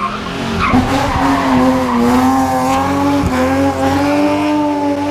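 Rally car's engine pulling hard at high revs, heard from onboard, with its pitch climbing gently and a brief dip about three seconds in. There is tyre noise on the tarmac in the first couple of seconds.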